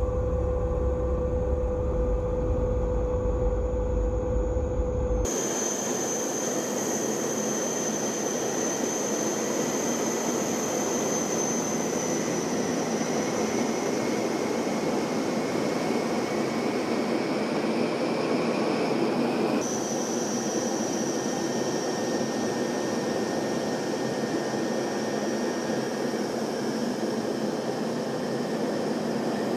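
Turboprop light attack aircraft engine noise, steady throughout. For about the first five seconds it is a low drone with a steady hum, then it cuts abruptly to a hissing whine with faint steady high tones, and shifts again abruptly about twenty seconds in.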